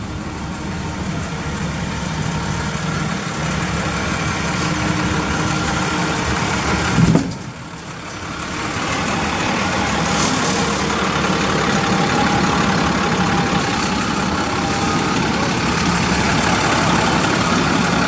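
Engine of a 2004 International bucket truck idling steadily. About seven seconds in comes a short loud knock, after which the engine sound briefly drops and then builds back up.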